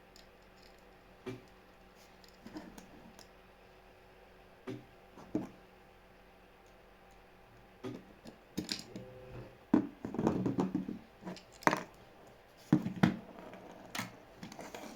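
Irregular clicks, taps and scraping of small hard objects being handled, a few at first and busier and louder in the second half.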